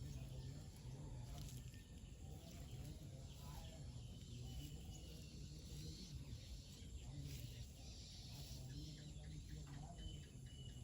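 Faint morning birdsong: several small birds chirping and whistling in short, scattered calls, over a low hum.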